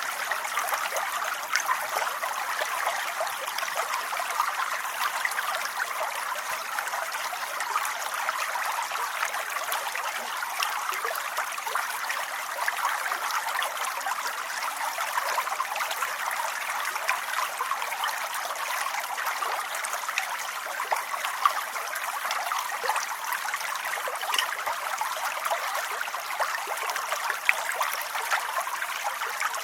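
Steady rain: an unbroken hiss of falling water with little bass, scattered with small ticks of individual drops.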